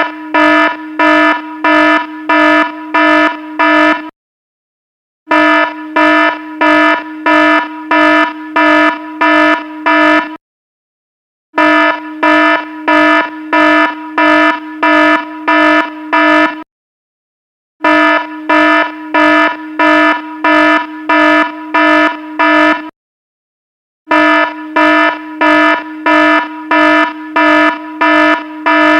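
Electronic alarm beeping with a low buzzy tone, about one and a half beeps a second in runs of roughly five seconds, each run followed by a pause of about a second before it starts again.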